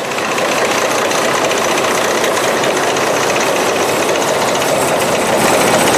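Overhead line shaft running, shaking the shed so that its tin roof sheets and light wooden frame rattle in a loud, fast, continuous vibration, like a washing machine on spin. The noise builds over the first second, then holds steady: the shaft is out of balance and sets the tin roof vibrating.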